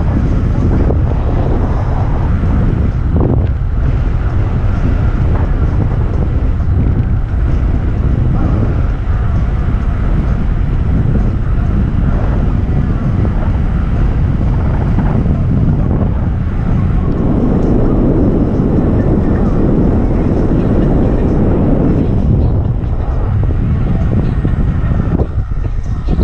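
Steady rush of wind buffeting the microphone, mixed with the rumble of an electric skateboard rolling over a trail.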